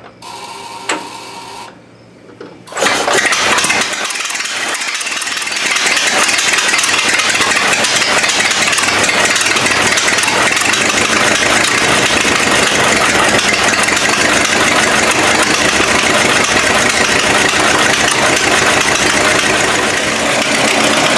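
Model T Ford four-cylinder flathead engine on a homemade tractor, catching after a few clicks about three seconds in and then running steadily, picking up a few seconds later. It is a cold start after a year standing, and the engine fires quickly.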